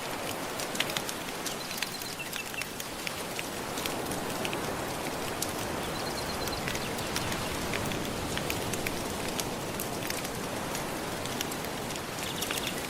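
Soft ocean waves washing in a steady hiss that swells from about four seconds in and eases near the end, with a fireplace crackling and popping in frequent sharp clicks over it.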